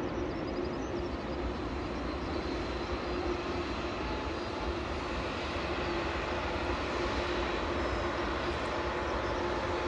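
Jet airliner engines running, a steady rush with a held hum in it, growing slightly louder in the second half.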